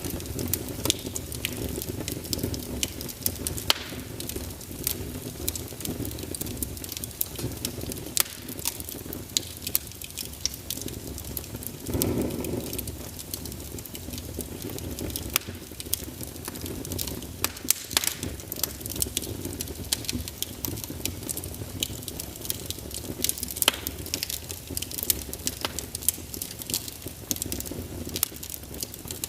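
Firewood burning in a fireplace: frequent sharp crackles and pops over a steady low rumble of the flames, with a brief louder swell about twelve seconds in.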